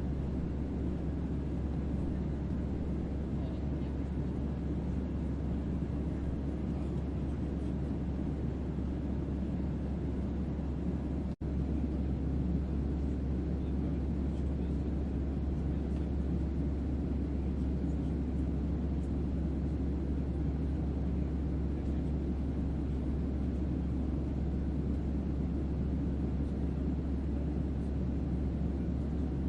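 Steady spaceship-style ambient hum: a deep bass drone under a broad, even hiss of white noise. It cuts out for an instant about eleven seconds in, then carries on unchanged.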